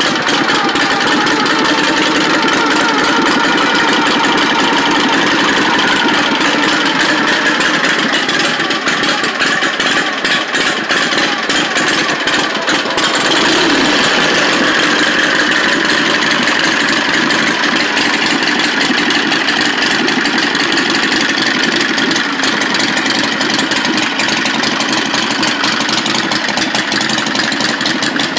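1947 Harley-Davidson Knucklehead V-twin with a Weber carburetor, idling steadily.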